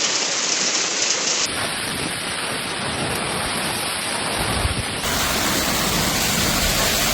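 Heavy rain pouring down as a steady hiss, changing abruptly twice as the recording switches to other rain.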